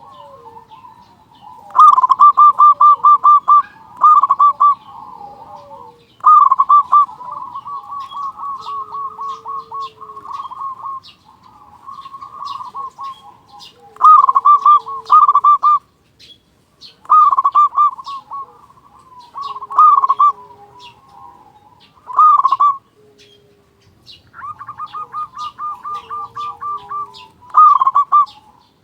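Zebra dove (perkutut) cooing loudly again and again: phrases of rapid bubbling notes with short pauses between them, some drawn out into longer rolling runs.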